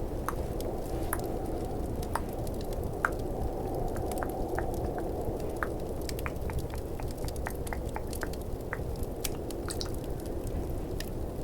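Irregular wet tongue clicks close to the microphone, over a steady low rush of snowstorm and fireplace ambience.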